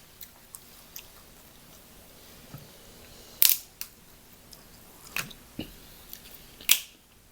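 A person eating seafood, heard up close: quiet chewing broken by a few sharp clicks and cracks, the loudest about three and a half seconds in, two more near the end.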